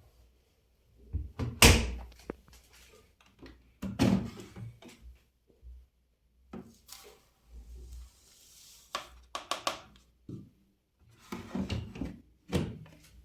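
Irregular knocks and clunks from handling an Arçelik 9100DMX washing machine's door and drawer, the loudest about a second and a half in, then several more in small clusters.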